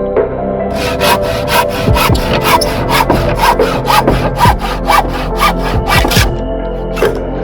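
Hand saw cutting wood in quick, even back-and-forth strokes, about five a second. It pauses briefly at the start and stops about six seconds in, with one more stroke near the end. Background music plays underneath.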